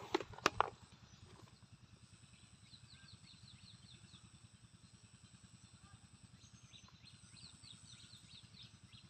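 A TVS Apache motorcycle's single-cylinder engine idling with a steady, even pulse. There are a few sharp clicks in the first second, and two quick runs of high chirps, about three and seven seconds in.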